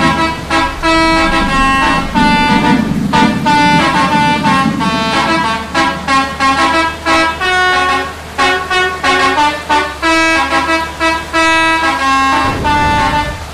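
Bus telolet horn, a set of musical horns, playing a fast tune of short notes that jump from pitch to pitch over the steady hum of the bus engine, with a deeper rumble coming in near the end.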